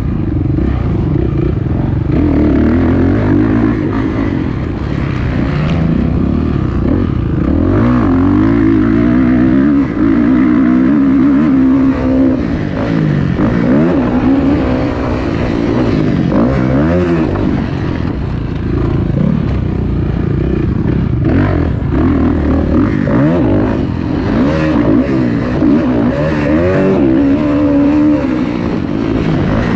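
Kawasaki KX450F single-cylinder four-stroke motocross engine being ridden hard, revving up and dropping off again and again as the bike accelerates and backs off around the track.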